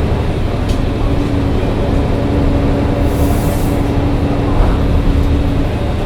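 Mercedes-Benz O405 N1 low-floor city bus under way, its diesel engine and drivetrain giving a steady low rumble. A steady whine joins in about a second in and fades near the end, and a brief hiss comes about halfway through.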